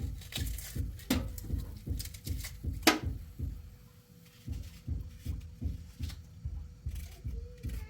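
Rhythmic low thumps, about three a second, with a few sharp clicks; the loudest click comes about three seconds in.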